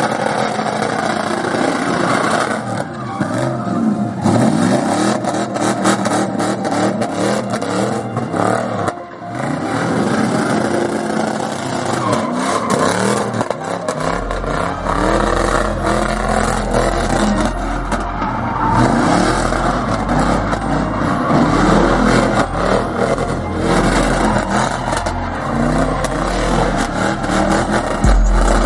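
Car engines revving at a car show, their pitch climbing and falling again and again, with several engines going at once.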